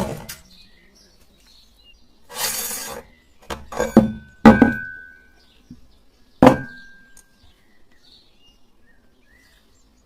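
An electric meat grinder's motor cuts off, then a brief rustle and a handful of sharp clinks of hard objects. Two of the clinks, at about four and a half and six and a half seconds, ring on briefly with a single clear tone.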